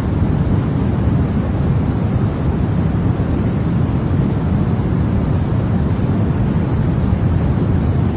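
Continuous white noise: a steady, deep hiss that never changes, weightier in the low rumble than in the highs.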